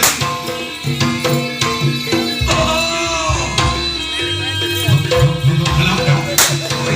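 Live jaranan (kuda kepang) music: hand drums beating quickly over sustained gong-chime tones, with a wavering melody line about halfway through.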